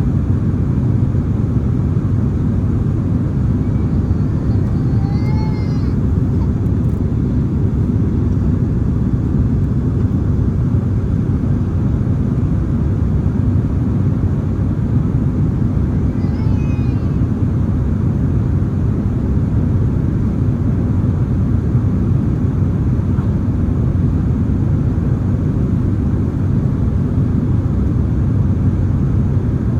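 Steady cabin noise of a Boeing 767-300ER in flight: a loud, even rumble of engine and airflow noise. Faint voices come through briefly twice.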